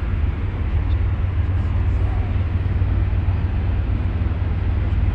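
Ferry under way: a steady low rumble with an even rushing noise above it.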